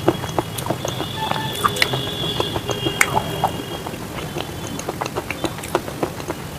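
Close-miked chewing of crunchy edible earth (clay, slate or shale) with the mouth closed: irregular small crunches and clicks, several a second.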